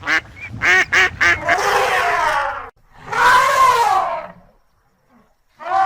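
A few quick duck quacks, then two long, arching trumpet calls from an elephant.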